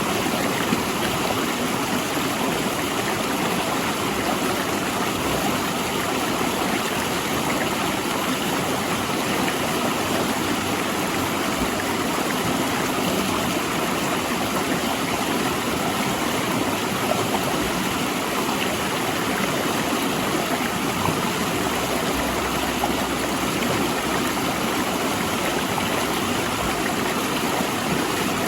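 Mountain river rushing and splashing between large rocks: a steady, even water noise.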